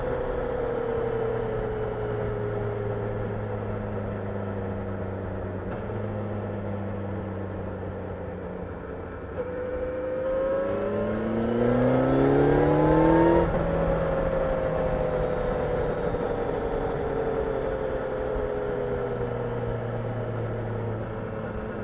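Kawasaki Ninja 1000SX's inline-four engine heard on board while riding. The revs fall slowly, then about nine seconds in the throttle opens and the revs climb for some four seconds, loudest at the top. They drop off sharply as the throttle closes, then fall away slowly again.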